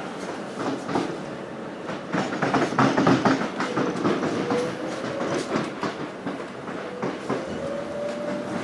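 Electric suburban train running, heard inside the carriage: the wheels clatter irregularly over rail joints, loudest about three seconds in, while a faint steady whine rises slightly in pitch in the second half.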